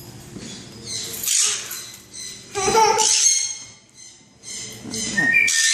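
Small birds chirping and squeaking in three short high-pitched bursts, about a second in, near the middle and at the end.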